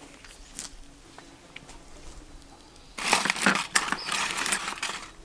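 Quiet at first with a few faint ticks, then about three seconds in a burst of crunching and crackling lasting about two seconds.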